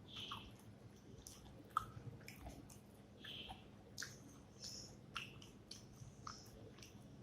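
Close-miked chewing of rice and fish curry, with irregular wet mouth clicks and smacks, one sharper about two seconds in.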